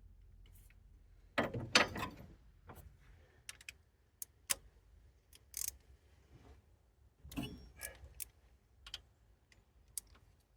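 Metal hand tools and a socket clinking and clattering against engine fittings, with scattered sharp clicks. There are two louder clatters, one about a second and a half in and one about seven seconds in.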